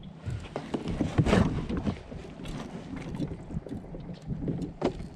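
Knocks and rattles against a fishing kayak as gear is handled aboard, with a louder burst of noise about a second in and a sharp knock near the end.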